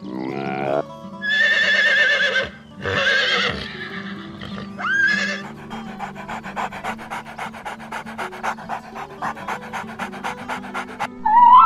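A few loud, wavering, whinny-like animal calls in the first four seconds, then a dog panting rapidly, about four to five breaths a second, over faint background music.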